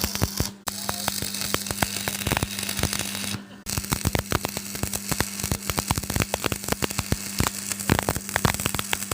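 Stick (arc) welding: the arc crackling and spitting continuously over a steady low hum. It breaks off briefly twice, just after the start and about three and a half seconds in.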